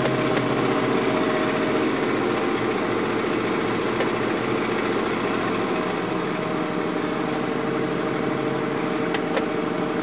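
Ford Expedition engine held at a raised idle of about 2,000 rpm by an OBD-II scan tool's engine-running test, heard from inside the cab as a steady run. The owner says the truck has an exhaust leak from rusted-out bolts.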